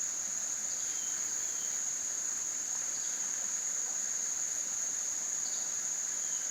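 Insect chorus: a steady, unbroken high-pitched trill, with a few faint short calls now and then.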